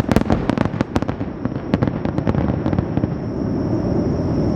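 Wide star mine fireworks barrage: a rapid run of shell bursts and crackles packed close together, thinning out after about two seconds into a steady low rumble.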